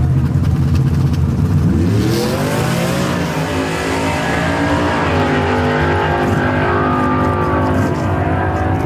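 Truck engine running low, then revving up hard as it accelerates, with the pitch climbing from about two seconds in, dipping briefly at a gear change near three seconds and climbing again before holding high.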